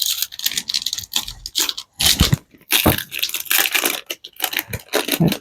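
Plastic trading-card booster pack wrapper crinkling and tearing in the hands, in quick irregular rustles and crackles.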